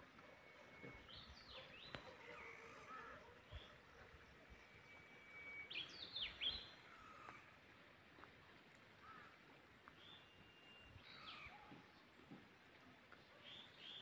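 Faint songbird calls against a quiet background: a held whistle followed by a quick run of sharp chirps, repeated about three times, loudest about six seconds in.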